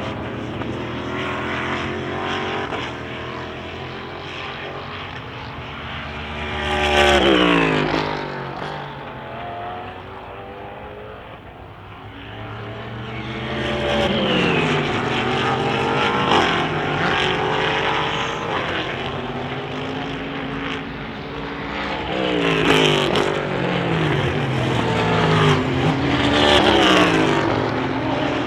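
Endurance racing cars passing at speed one after another, each engine note dropping sharply in pitch as it goes by. The loudest pass comes about seven seconds in, and several more follow close together in the second half, with other cars running further off in between.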